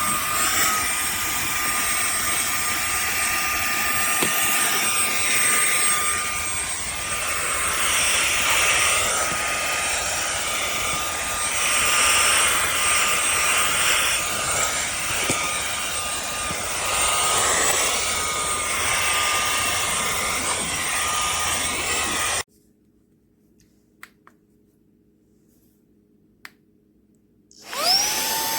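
Cordless handheld vacuum cleaner's motor running with a steady high whine and rushing air. It switches off abruptly; after a pause with a couple of faint clicks, it starts again, its whine rising quickly as the motor spins up.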